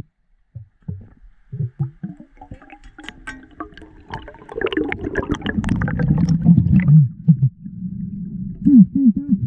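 Water gurgling and bubbling with low rumbles and short clicks, busiest from about halfway through. This fits bubbles and water noise on the microphone of an underwater camera during a spearfishing dive.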